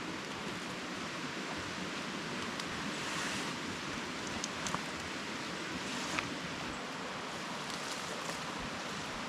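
Rainforest creek water flowing in a steady, even rush, with a few faint clicks about halfway through.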